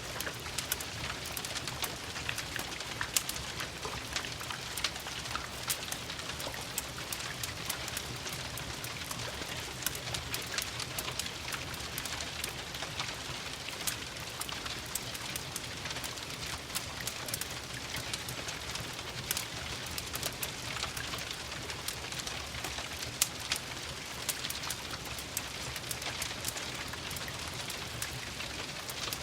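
Steady rain patter mixed with the crackle of a wood fire: an even hiss dotted throughout with many small sharp pops and ticks, a couple of them louder.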